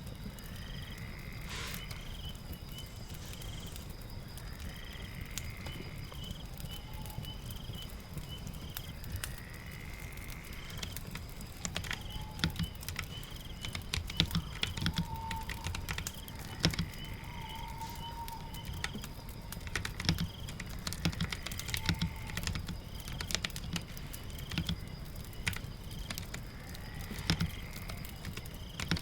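Typing on a keyboard, sparse at first and busier from about halfway, over a steady bed of rain and crackling fire. A faint high chirp recurs every few seconds.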